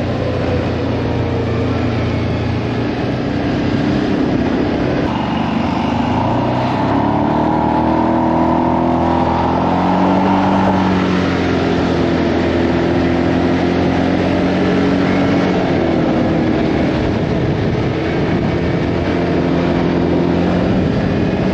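A vehicle engine running while being ridden, its pitch rising and falling several times with the throttle, climbing for a few seconds near the middle.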